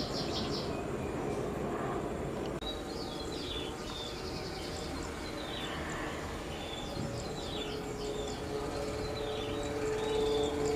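Small birds chirping repeatedly in short calls over a steady low background rumble; a steady hum comes in about three-quarters of the way through and grows louder.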